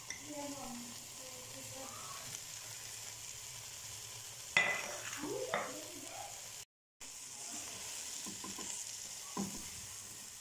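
Ground chicken and vegetables sizzling in a steel pot while a spatula stirs and scrapes the pan, with louder bursts of scraping and clatter around the middle.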